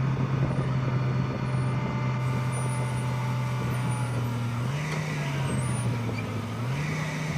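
Excavator's diesel engine running steadily, revving up briefly about five seconds in and again near the end.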